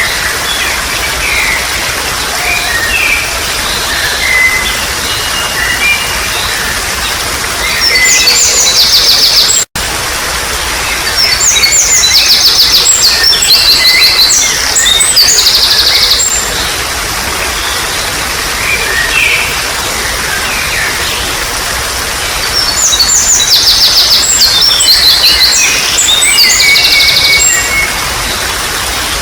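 Steady babbling of running water with wild birds singing over it: three bouts of fast, rapidly repeated high notes, one about a third of the way in, one just after, and one near the end, with scattered short chirps between. The sound cuts out for a split second about a third of the way in.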